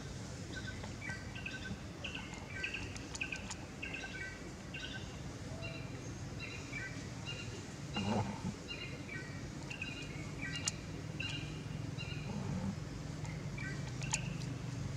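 Outdoor background with many short, repeated bird chirps over a steady low hum, and a soft thump about eight seconds in.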